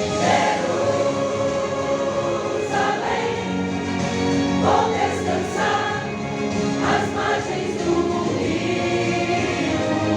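A church choir singing a Christian song, many voices holding long notes.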